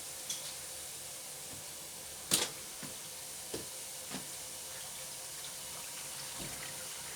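Water running steadily into an Indesit washing machine as it fills, with a few light clicks over it, the sharpest a little over two seconds in.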